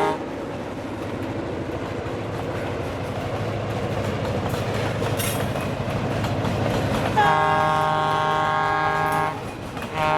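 Diesel freight locomotive sounding its multi-note air horn: one blast cuts off at the start, the locomotive's engine and the train's wheels rumble for about seven seconds, growing louder, then a long horn blast sounds about seven seconds in, breaks off, and another begins near the end.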